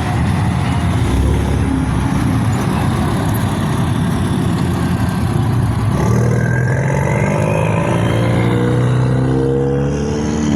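Loud car engine and exhaust noise. About six seconds in, one engine's pitch climbs steadily as it revs up and accelerates.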